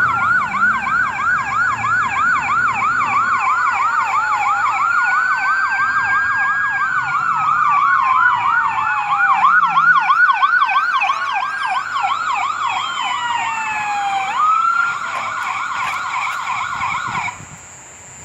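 Police car sirens, more than one at once: a fast yelp of about four sweeps a second over slower rising-and-falling wails. They cut off suddenly near the end as the cars arrive.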